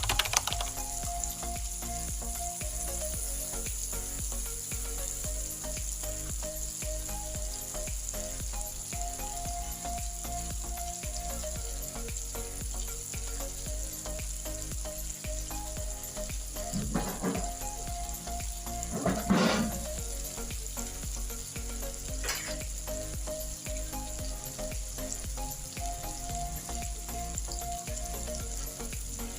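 Tofu sizzling and frying in hot oil, a steady crackling hiss, with a few brief louder scrapes of stirring in the second half.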